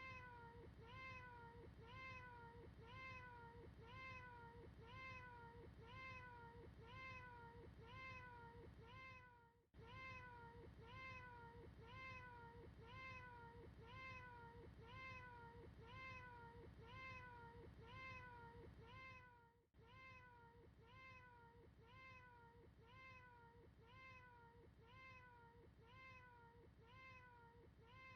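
A cat's short meow repeated over and over as an identical loop, about two calls a second, faint. It breaks off briefly about 10 and 20 seconds in, then starts again.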